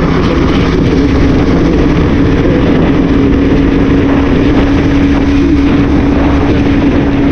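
CFMoto 450SR motorcycle engine running at a steady cruising speed, its note holding level under heavy wind and rain rumble on the rider's microphone.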